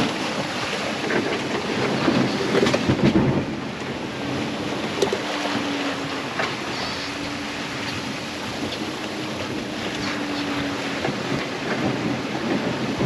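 Sailboat sailing close-hauled at about six knots: water rushing along the hull and wind buffeting the microphone, with scattered knocks and splashes. A faint steady hum runs for several seconds in the middle.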